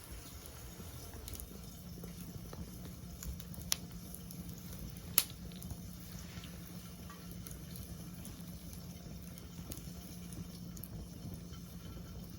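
Wood fire burning with a steady low rush and scattered small crackles, and two sharp pops about four and five seconds in.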